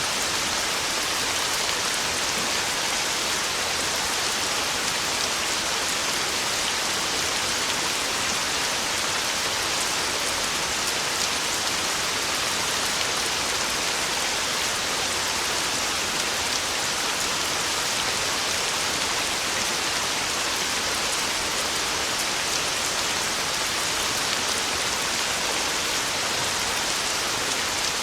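Heavy rain falling steadily: a dense, even hiss of drops with faint scattered ticks and no change in level.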